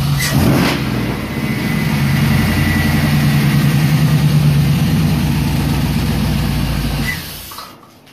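Chevy V8 engine idling steadily after a short blip of revs about half a second in, then shut off about seven seconds in, dying away within half a second.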